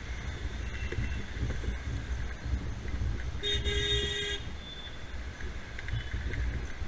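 A vehicle horn honks once for about a second, a little past the middle, over a steady low rumble of traffic.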